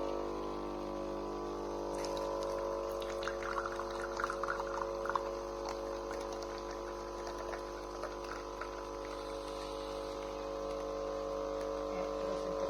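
KOTLIE AC-513HF capsule coffee machine's pump humming steadily as it brews coffee into a cup, with a spell of crackling, sputtering spurts a few seconds in.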